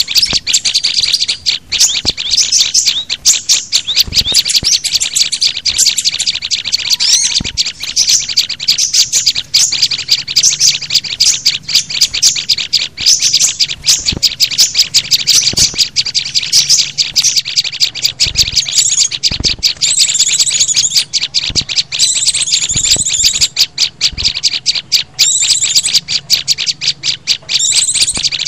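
Dense, continuous chirping and trilling of small songbirds, many rapid high notes a second, from a combined bird-lure recording of white-eye, prinia, sunbird and flowerpecker calls used to attract small wild birds. Repeated trilled phrases come in over the second half.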